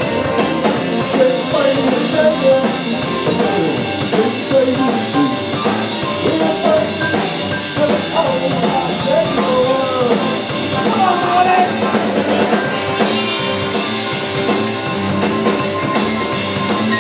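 Live rock and roll band playing without vocals: drum kit keeping a steady beat under electric guitar.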